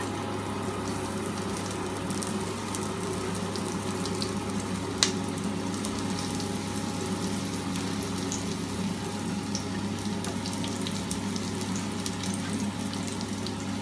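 Sliced onion and carrot sizzling in hot olive oil in a pot, a steady hiss over a constant low hum, with one sharp click about five seconds in.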